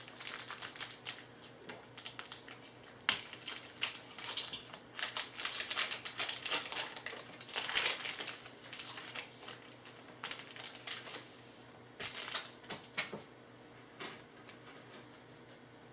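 Trading cards being handled and flipped through, irregular clicks and short rustles of card stock sliding and tapping against card stock. Busiest in the first half, sparser near the end.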